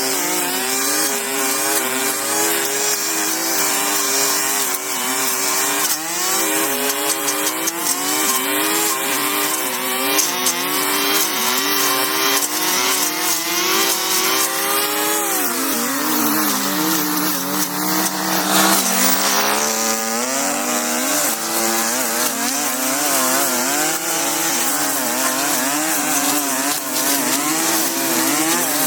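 Small petrol engine of a handheld power tool cutting through brush, its revs rising and falling again and again under load. About sixteen seconds in it drops to idle for a few seconds, then revs back up.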